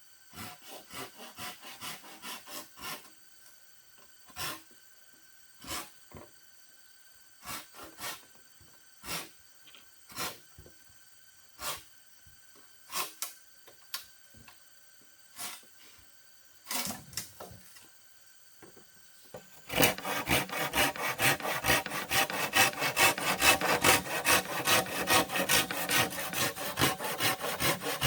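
Wood being sawn by hand: separate strokes about once a second at first, then about two-thirds of the way in a fast, continuous run of sawing strokes that is much louder.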